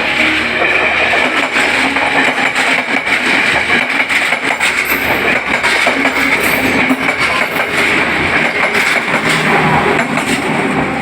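A train passing close by: a loud, steady rush of noise with rapid clicking of wheels over the rail joints.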